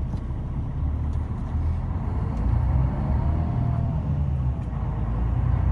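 Tour bus engine running as the bus drives, heard from inside the cabin: a steady low rumble with a faint whine that rises and falls.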